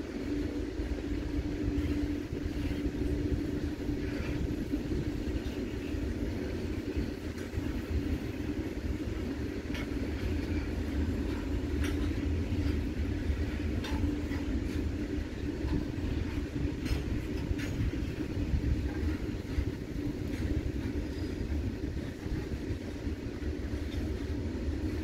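Coal-loaded open-top freight wagons rolling past on the rails: a steady rumble of wheels on track with a steady hum underneath, and a few sharp clanks as wheels cross rail joints.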